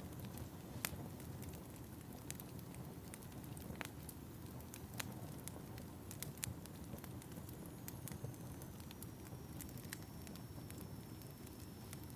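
Wood fire crackling in a fireplace: a steady low rumble with scattered sharp pops. A faint high whistle, falling slightly in pitch, joins in the second half.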